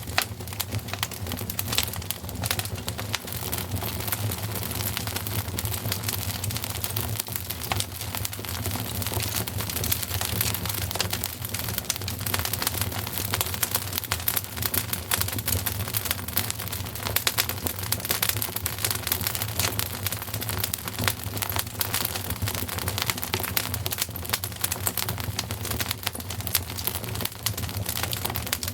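Wood fire crackling steadily with a dense stream of small rapid pops and snaps over a low steady rumble.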